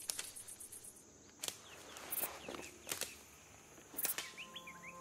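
Night outdoor ambience: short chirping calls from birds or insects, broken by about five scattered sharp cracks.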